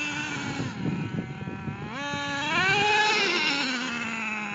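RC truck's motor running, its pitch rising and falling with the throttle: it climbs to a peak about three seconds in and then drops away. Rough crackling comes through about a second in.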